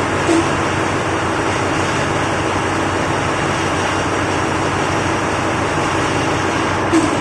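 Sulzer 6RTA48T-B six-cylinder two-stroke slow-speed marine diesel main engine running with a steady, loud, dense machinery noise. A brief sharper knock stands out just after the start and another near the end.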